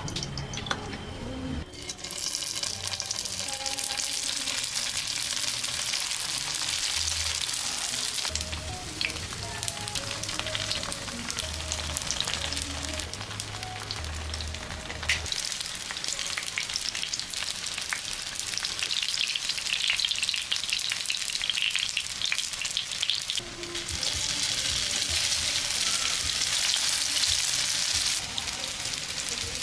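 Rice-paper prawn dumplings frying in shallow oil in a nonstick pan, with a steady sizzle and fine crackling that sets in about two seconds in. The sizzle grows louder and softer in stretches.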